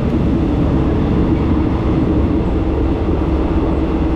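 Steady low noise of a passenger train carriage running along the rails, heard from inside the carriage, with a faint steady hum.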